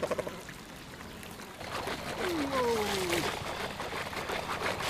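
Water trickling and splashing. About two seconds in, one long falling call is heard.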